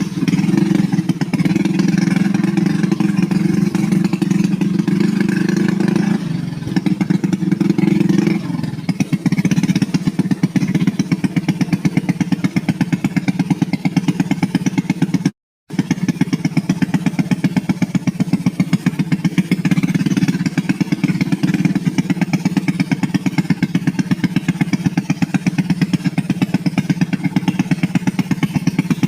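Small motorcycle engine running steadily, its note shifting briefly between about six and eight seconds in. The sound cuts out for an instant near the middle.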